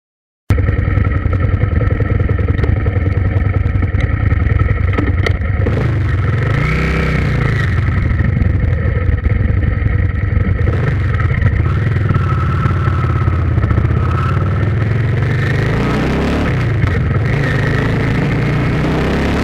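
A motor vehicle's engine running, loud and steady, its pitch swelling up and back down a couple of times as if revved. It cuts in abruptly about half a second in.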